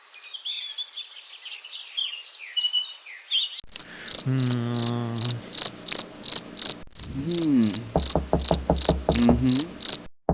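Night-time ambience: birds twitter briefly, then from about four seconds in crickets chirp in an even rhythm of about three pulses a second. Lower repeated pulses join in during the last two seconds.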